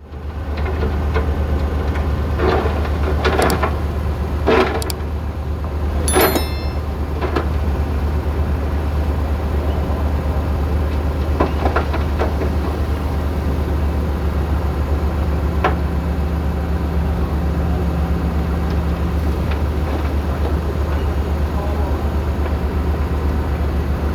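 Bulldozer's diesel engine running steadily with a deep, even hum, with several metallic clanks and a short squeal in the first seven seconds or so.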